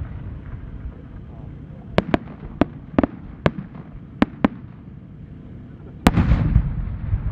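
Japanese aerial firework shell display: a quick string of about nine sharp cracks, then about six seconds in the deep boom of a large shell bursting, followed by a long rumbling echo.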